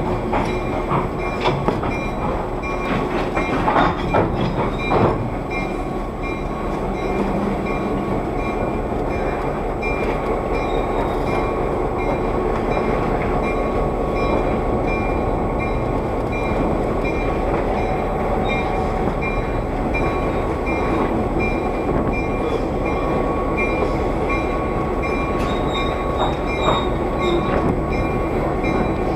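Heritage passenger train rolling slowly through the yard, heard from aboard one of its cars: a steady rumble of wheels on the track, with a few sharp clanks in the first five seconds and a faint steady high whine.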